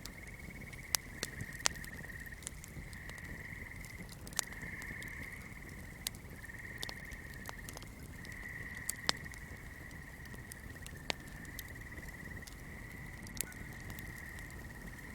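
Swamp night chorus: a steady high-pitched trilling that pulses slightly, with sharp irregular crackles of a small fire popping over it about a dozen times.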